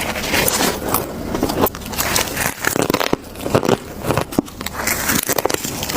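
Freezer frost being bitten and chewed: a run of irregular, crisp crunches and crackles.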